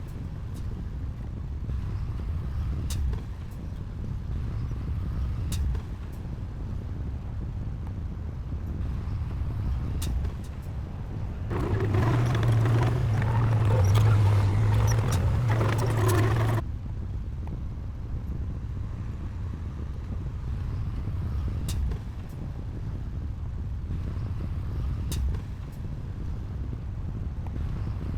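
Diesel engine of heavy earthmoving machinery running steadily, with occasional sharp clicks. About halfway through it grows louder for some five seconds, then drops back abruptly.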